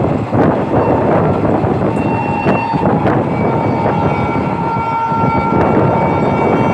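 Passenger train running along the line, a dense steady rumble of wheels on rails, with a few thin, steady high tones joining from about two seconds in.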